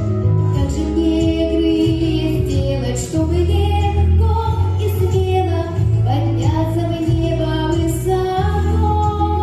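Music: a song sung by a female voice over instrumental backing with a steady bass line.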